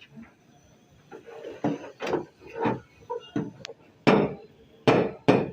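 Hammer blows on a car's sheet-metal body panel during dent repair, about seven strikes coming roughly every half second from about a second in, each with a short ring.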